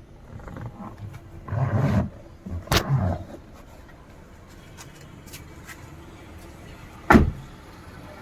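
Handling knocks followed, about seven seconds in, by a single sharp thump, the loudest sound here: a car door being shut.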